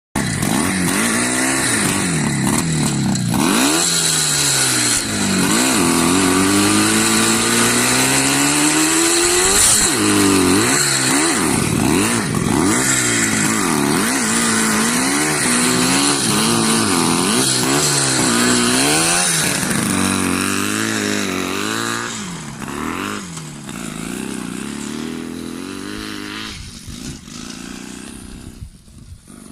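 IZh Jupiter motorcycle's two-stroke engine being revved over and over, the throttle blipped up and dropped back, in quick bursts about once a second through the middle. Toward the end the revving eases off and the sound grows quieter.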